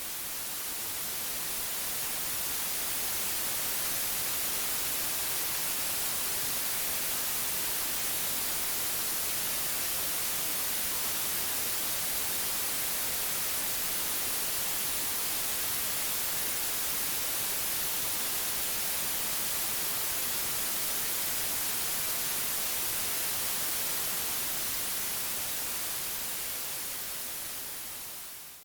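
Steady white noise: an even hiss, strongest in the high frequencies, that swells in over the first few seconds and dips out at the very end, where the recording loops.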